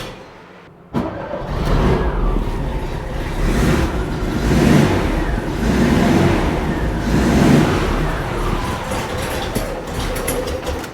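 Air-cooled VW flat-four engine catching about a second in and running roughly, its speed surging up and down several times: the freshly rebuilt engine will not yet settle to an idle while its carburetor is still being adjusted.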